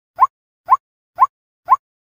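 White-breasted waterhen calling: short notes, each rising in pitch, repeated evenly about twice a second, four in a row.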